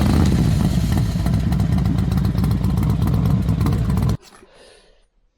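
Honda CT90's small single-cylinder four-stroke engine running, then shut off abruptly about four seconds in.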